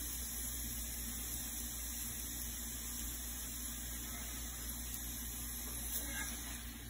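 Ghee-brushed paratha sizzling on a hot cast-iron tawa: a steady, even hiss.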